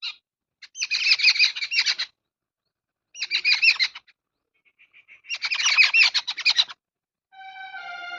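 Small songbird chirping in three quick bursts of rapid, repeated high notes, with silent gaps between them. Near the end a steady held tone with overtones comes in.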